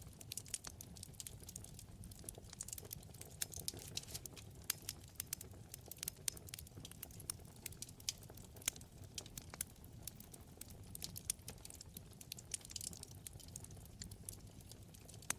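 Wood fire burning in a fireplace, crackling with many quick, irregular sharp pops over a low, steady rumble of flame.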